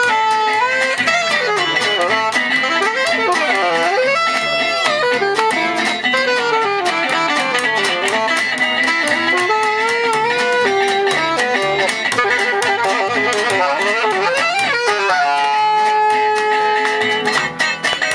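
Gypsy jazz (jazz manouche) band playing live: a violin melody full of slides and bends over steady rhythm-guitar strumming. Near the end the melody drops out and the strumming turns choppy.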